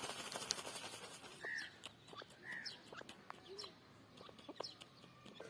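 Birds calling with short, arched chirps, among scattered sharp ticks and scratching. A brief rustling burst comes at the very start.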